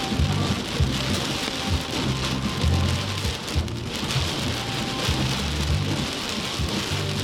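Heavy rain pouring steadily during a rainstorm, with irregular low rumbles and thumps underneath.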